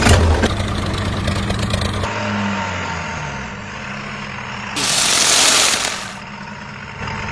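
An engine running with a low rumble, then cutting abruptly to a thinner engine sound whose pitch falls. A loud hiss lasts about a second, starting near the five-second mark, and a steady engine hum returns near the end.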